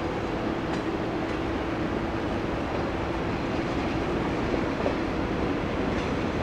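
A train running on the line: a steady engine drone with a few faint clicks from the wheels on the track.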